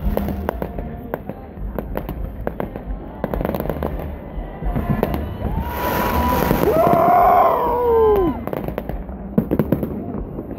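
Aerial fireworks display: a steady run of sharp bangs and crackles. About six seconds in comes a big loud burst with several whistles bending in pitch, which fade out around eight seconds before the bangs go on.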